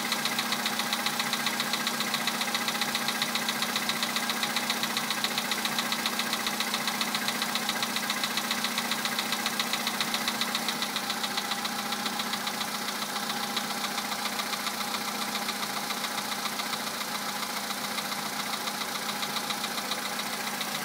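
Volkswagen Polo sedan petrol engine idling cold with a fast, even metallic knock, an unpleasant knock that the owner has not cured with an oil change. The knock is louder at first and eases a little about halfway through.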